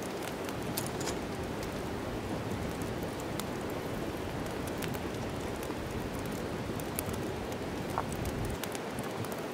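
Wood fire crackling in a fireplace: a steady hiss of burning with scattered sharp pops and snaps every second or two.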